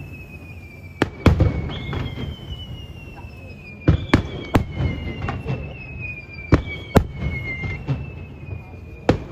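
Aerial firework shells bursting, about eight sharp bangs at irregular intervals, under long high whistling tones that slide slowly downward in pitch.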